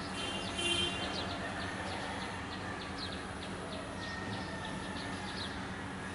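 Small birds chirping, short high chirps repeating several times a second, with one louder call about a second in, over a steady low hum.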